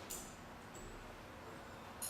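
Quiet room tone: a steady faint hiss, with a brief faint noise just after the start.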